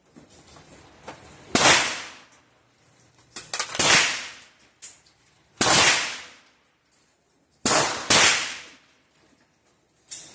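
Five gunshots over about seven seconds, irregularly spaced with the last two in quick succession, each followed by a short ringing tail.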